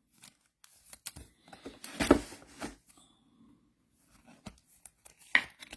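Soft rustling and scattered light clicks of trading cards and pack wrappers being handled, loudest about two seconds in.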